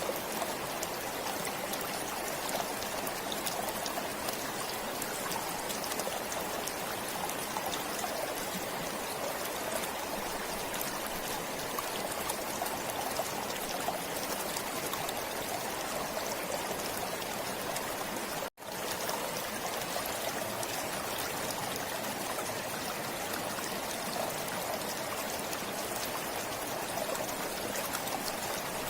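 A forest stream flowing steadily, a continuous rush of water. The sound cuts out for an instant about two-thirds of the way through.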